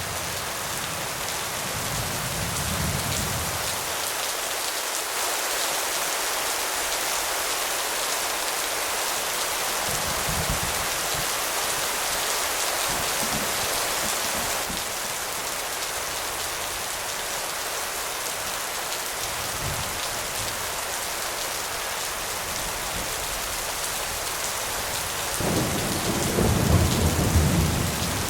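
Steady heavy rain falling, with thunder rumbling faintly a few times and then a louder, longer roll of thunder near the end.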